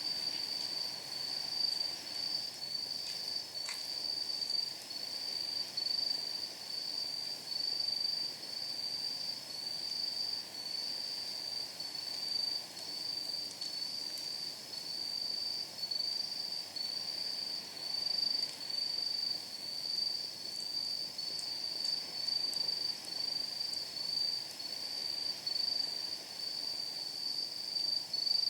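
Night insects chirping in an even pulsing rhythm, about three chirps every two seconds, with a few faint crackles from burning firewood.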